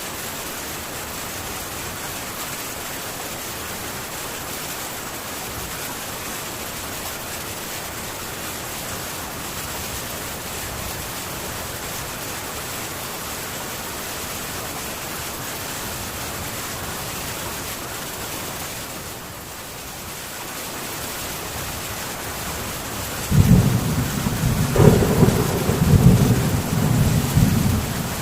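Heavy rain falling steadily on a metal tin roof. About 23 seconds in, loud thunder breaks in and rumbles on in rolling surges over the rain.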